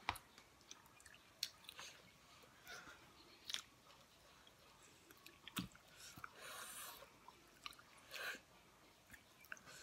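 Faint chewing and biting of chicken pieces eaten off the bone by hand: a scatter of short, soft clicks from the mouth, with a brief hissy mouth noise about seven seconds in.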